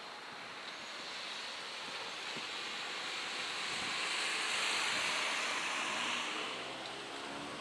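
A vehicle passing the crossing: a rushing noise that swells to a peak about four to five seconds in and then fades away.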